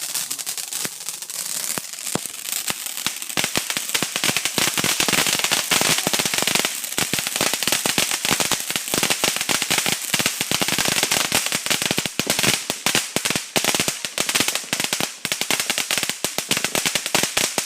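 Green bamboo firework going off: a long, dense run of rapid firecracker bangs and crackling, with no let-up, thickening about two seconds in.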